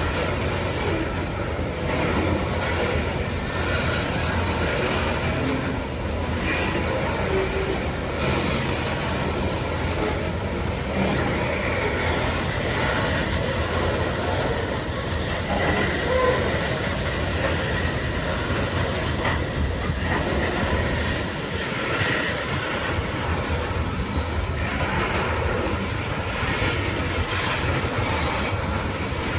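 BNSF coal train's cars rolling steadily past, wheels clicking over the rail joints, with a faint steady wheel squeal through the middle.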